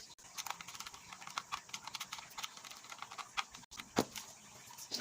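Irregular small clicks and scrapes of hands working live and neutral wires into the screw terminals of a two-wire AC plug connector, with one sharper click about four seconds in.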